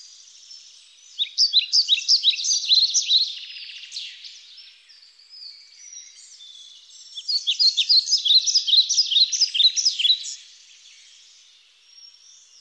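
Bird song: two runs of rapid, high chirping notes, each lasting about three seconds, starting about a second in and again about seven seconds in, with fainter chirps between.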